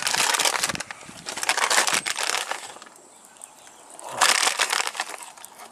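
Ground coffee being spooned out and tipped into a billy can: three short bursts of gritty rustling and scraping.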